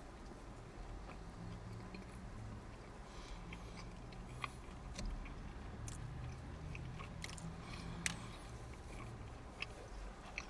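A man chewing a mouthful of soft bread roll and fried popcorn chicken, with scattered short, faint mouth clicks and crunches.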